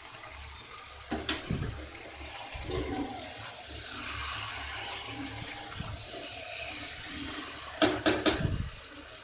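Chicken pieces sizzling in oil and spiced masala in a steel kadai as a metal spatula stirs and turns them, frying the meat down until the oil separates. A few sharp scrapes of the spatula against the pan come about a second in and again near the end.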